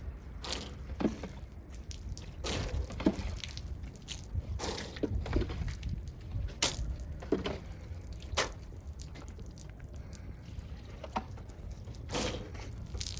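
Water splashing and dripping in irregular short spurts, a few seconds apart, over a low steady rumble, as the truck is washed.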